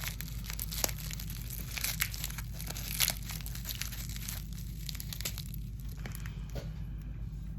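Plastic packaging crinkling and rustling as it is unwrapped by hand. The crackling is dense at first and thins out after about four seconds.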